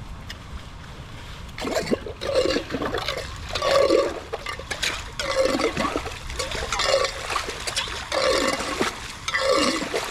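Water gurgling and splashing as it drains, in repeated surges about every second and a half, each gurgle dropping in pitch; a quieter steady rush before the first one.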